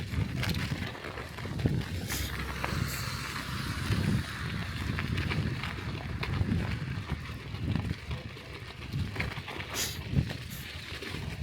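Bicycle riding over snow-covered streets: a low, uneven rumble of tyres and ride noise, with a few sharp clicks or rattles along the way.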